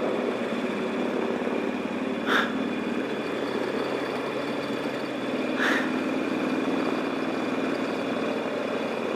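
Motorcycle engine running at a steady cruise under wind and road noise, with two brief higher sounds about two and a half and six seconds in.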